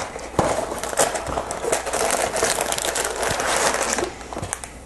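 A cardboard Lego set box being opened and its contents pulled out: dense crinkling and rustling with small knocks, easing off near the end.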